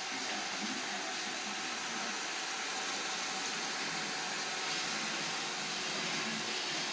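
Roomba robot vacuum cleaner running with a steady whir.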